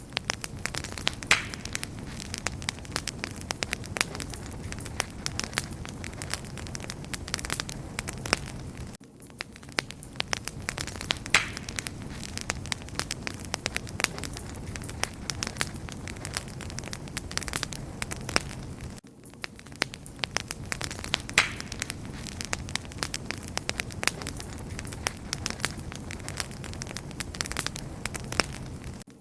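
Wood fire crackling steadily, with frequent sharp pops and snaps over a low, even hiss. The same stretch of crackling repeats about every ten seconds, with a brief dip in level at each repeat.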